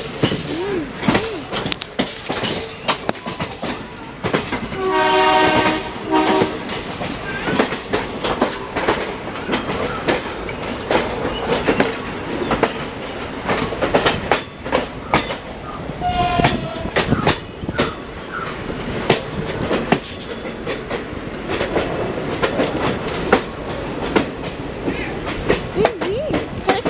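Railway noise of a train in motion or shunting: a continual run of wheel and coupling clanks and clicks, with a locomotive horn sounding for about a second and a half about five seconds in, and a short, higher horn toot near the middle.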